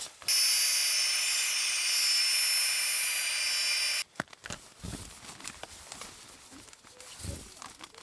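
Steady rush of air through the valve of a Nemo Tensor winter air mattress, lasting about four seconds and cutting off suddenly, followed by soft rustling.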